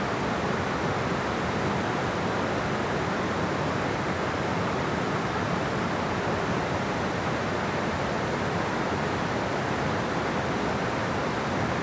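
Steady rush of water pouring at a dam.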